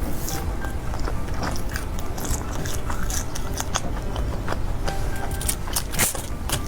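Close-miked chewing and biting of food, with frequent short crackly clicks from the mouth as it is chewed.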